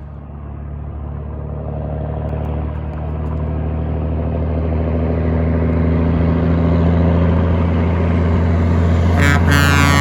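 Heavy truck's diesel engine running with a steady low note, growing louder as it approaches. A short horn blast sounds near the end.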